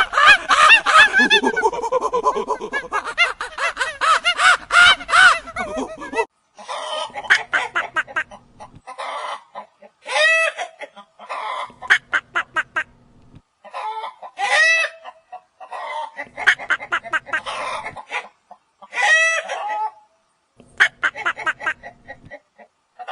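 Chickens clucking and calling. A dense run of overlapping calls fills the first six seconds, then the calls come in short repeated bursts every two seconds or so.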